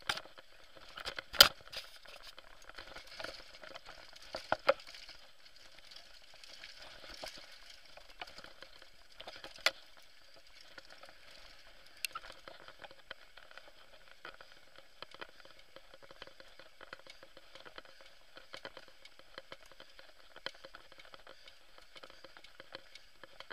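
Bike descending a rough trail: a steady crackle of tyres over loose ground and rattle, broken by sharp knocks of the bike striking rocks or bumps, the loudest about a second and a half in and others around five, ten and twelve seconds in.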